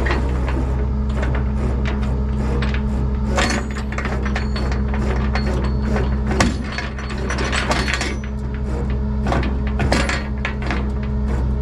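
An engine idles steadily while quick metal clicks and clanks come in irregular runs, the sound of rigging, likely a ratchet or chain, being worked and tightened.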